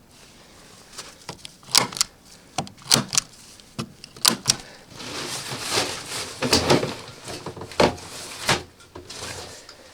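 Handling sounds from manual work: a dozen or so sharp knocks and clatters, with a stretch of scraping and rustling in the middle.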